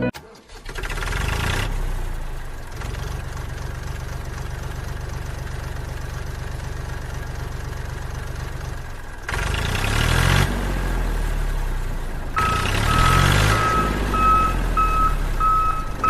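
Mini tractor's small diesel engine running steadily, then revving up twice with rising pitch. A high beep like a reversing alarm repeats about twice a second over the second rev.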